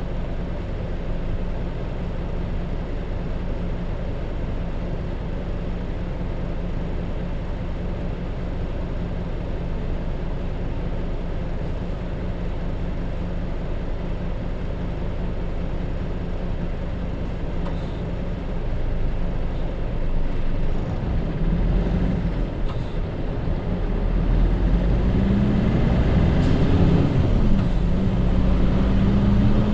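Hino J07E diesel engine of a route bus with a five-speed manual gearbox, running at a steady low speed for most of the time. About 20 seconds in it gets louder as the engine revs up under acceleration, its pitch rising, dropping sharply at a gear change, then rising again.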